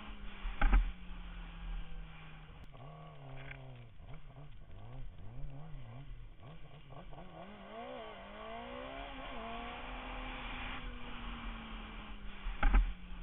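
Sport bike engine running: a steady note that swings up and down in pitch as the revs change through the middle, then settles, over a rush of wind. Two sharp loud knocks, about a second in and again near the end.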